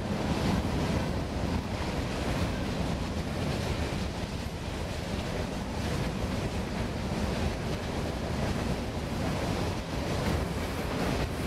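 Freight train rolling past: a steady rumble of railcars on the rails, with wind buffeting the microphone.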